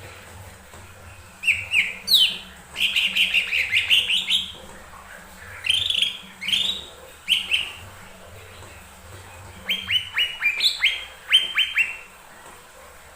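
Cucak ijo mini, a small leafbird, singing in rapid runs of sharp chirping notes, in three bouts with short pauses between them.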